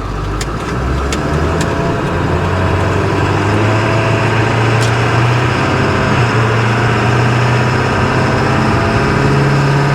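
Ford 7.3 L Power Stroke turbodiesel V8 in a 2000 F350 running; it picks up about a second in and then holds steady. A few light clicks in the first two seconds.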